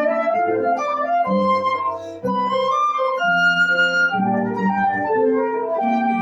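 Flute playing a slow, legato melody with piano accompaniment, in a classical recital piece.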